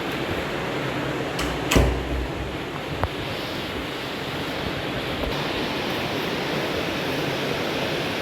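Heavy rain pouring down steadily, with a single loud thud about two seconds in.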